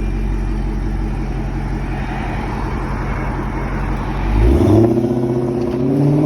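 A car's engine running at a low, steady rumble, then revving up sharply about four and a half seconds in as the car pulls away, its note climbing and staying higher and louder.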